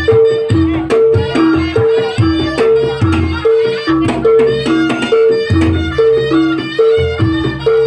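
Javanese jaranan ensemble music: two gong-chime notes alternate steadily, a little over two strokes a second, over hand-drum (kendang) strokes, with a reedy melody winding above.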